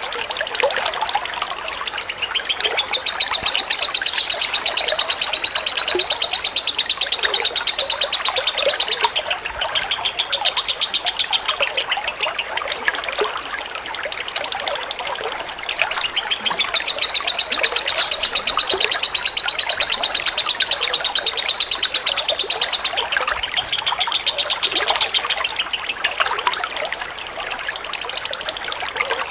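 Lovebird singing a long ngekek chatter: a fast, even stream of high chirps that keeps going, easing briefly twice, over a constant trickle of water.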